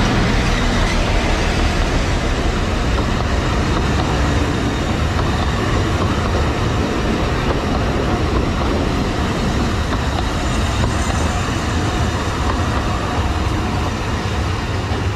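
Very loud Alishan Forest Railway train passing close by: its red diesel locomotive goes by first, loudest at the start, then the passenger cars roll past on the narrow-gauge track in a steady, heavy rolling noise.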